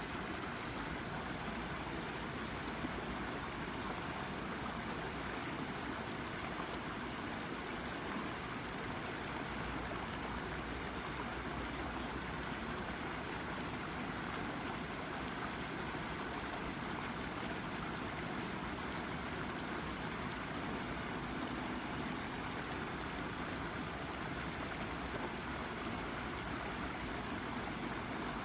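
A shallow brook babbling and trickling over a rock, with a steady, even flow.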